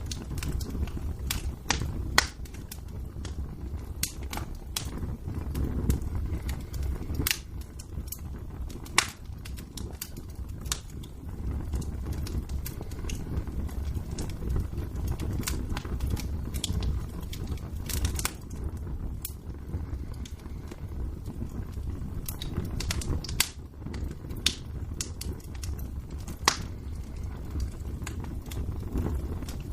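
Wood fire in a fireplace burning, with a low steady rumble and irregular sharp crackles and pops.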